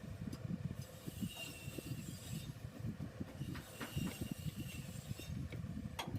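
Irregular low rustling handling noise with a few light, sharp clicks scattered through it.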